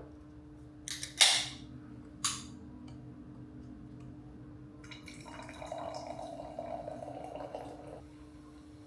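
Three sharp clacks, the loudest about a second in, then liquid pouring into a glass for about three seconds.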